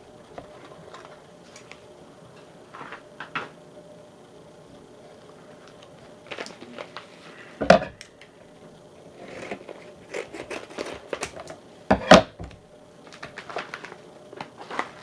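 Baseball cards being handled at a table: scattered light clicks, taps and rustles of cards and their holders, with two louder knocks about eight and twelve seconds in.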